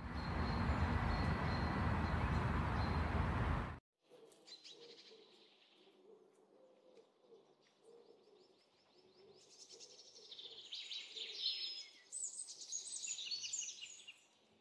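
A steady rushing noise that cuts off abruptly a little under four seconds in, followed by birds chirping and trilling in short high calls that become louder and more frequent in the second half.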